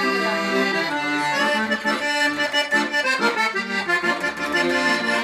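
Sanfona (piano accordion) playing a pisadinha (piseiro) tune: a melody over rhythmic, pulsing chords and bass notes that become more marked after about a second and a half.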